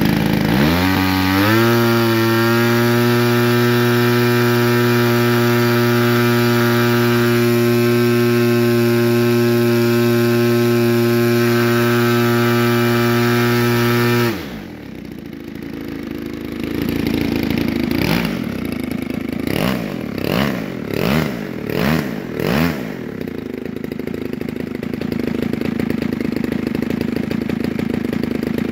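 DLE 35RA 35cc single-cylinder two-stroke gas engine turning an 18x10 propeller on test. It revs up in the first two seconds and holds a steady high-speed run, then drops suddenly to idle about halfway through. It is then blipped up and down about five times and settles back to idle.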